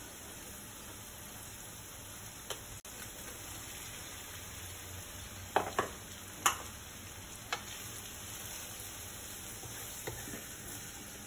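Sliced meatballs frying in margarine with garlic and onion in a wok: a steady sizzle, with a few sharp taps and clicks in the middle as the pieces go in and are stirred.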